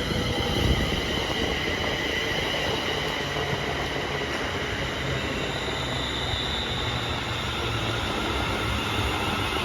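ScotRail Class 380 electric multiple unit running into the platform: a steady rumble with several high-pitched tones held above it.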